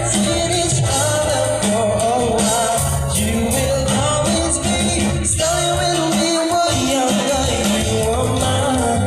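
Live band playing a pop song, with a sung melody over bass guitar and drums.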